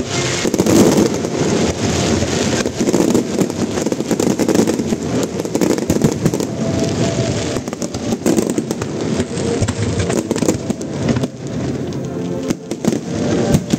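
Fireworks display: a rapid, unbroken run of bangs and crackling from shells bursting overhead, coming thickest in the second half.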